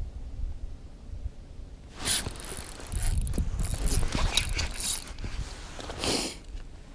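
Fishing reel ratcheting in dense clicking bursts that start about two seconds in, with a shorter burst near the end, over a low rumble.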